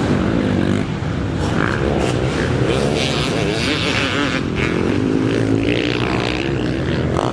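Motocross bikes racing, their engines revving up and down in pitch as the riders work the throttle and gears, with more than one bike heard at once.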